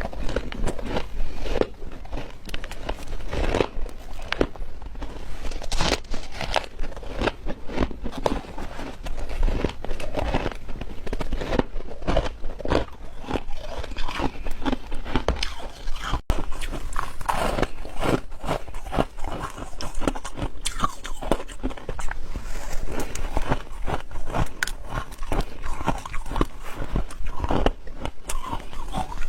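A person biting and chewing pieces of ice: a dense, irregular run of sharp crunches and crackles.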